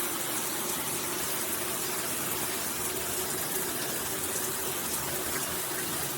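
Brass high-flow shower head spraying at strong pressure: a steady, even hiss of running water.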